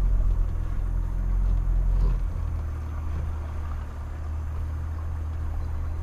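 Mitsubishi Pajero Sport's engine running under light load during slow off-road driving, heard from inside the cabin as a low drone that eases off slightly about two seconds in.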